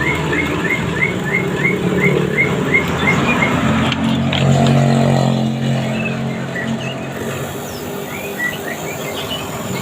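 A small bird chirps in a quick, even series, about three chirps a second, for the first three seconds or so. A motor vehicle then passes, its low engine hum swelling and fading over a few seconds, with a few more scattered bird chirps toward the end.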